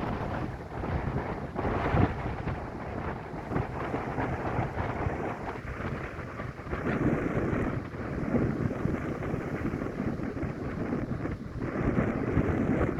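Strong wind buffeting the microphone in uneven gusts, a rough rumbling rush that swells and eases every few seconds.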